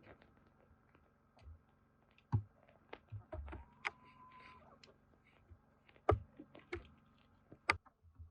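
Scattered faint clicks and knocks of small objects being handled, a few of them sharper, with a short faint steady tone about four seconds in.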